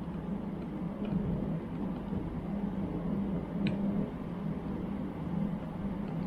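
A steady low hum over background noise, with one small sharp click about three and a half seconds in.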